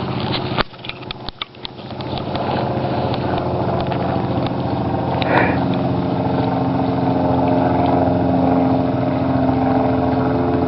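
Scattered clicks and knocks, then a motor vehicle engine that builds up about two seconds in and runs steadily.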